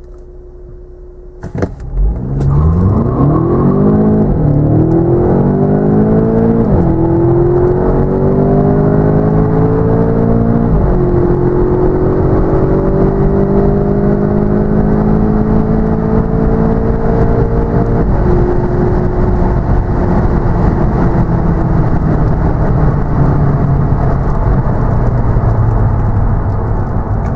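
Audi A1 1.4 TFSI twincharged (supercharged and turbocharged) inline four-cylinder petrol engine, idling briefly and then launched at full throttle about a second and a half in. The revs climb through the gears, with about four quick upshifts of the 7-speed S tronic gearbox, each a sudden drop in pitch. It ends in a long, steady pull in a high gear.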